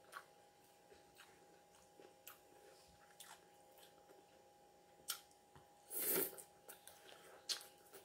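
Close-up eating of a salad: chewing, with small clicks of a plastic fork against a glass bowl scattered throughout, and one louder, longer noise about six seconds in.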